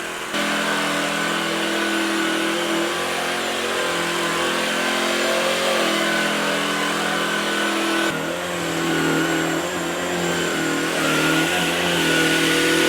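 A motor running steadily, starting suddenly just after a count of four. Its pitch shifts a couple of times, and it cuts off abruptly near the end.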